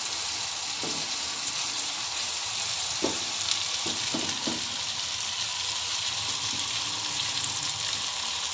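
Minced chicken masala frying in oil in a non-stick pan, a steady sizzle. A silicone spatula stirs it in a few soft strokes, about a second in and again between three and four and a half seconds in.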